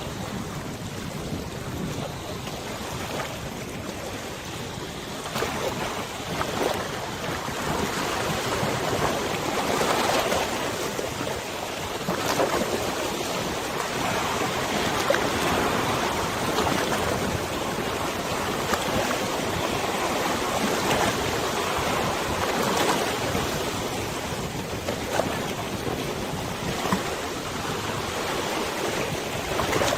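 Waves on a wide river lapping and washing, with wind: a steady rushing noise that swells and eases every few seconds, with the odd small splash.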